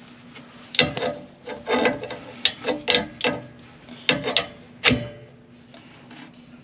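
Metal tools and parts knocking and clattering as they are handled: about a dozen sharp knocks, some with a short ring, bunched in the first five seconds.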